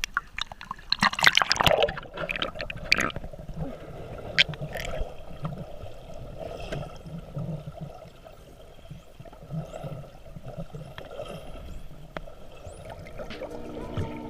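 Water sloshing and gurgling around the microphone during snorkeling, with a cluster of loud sharp knocks and splashes about a second in. Music comes in near the end.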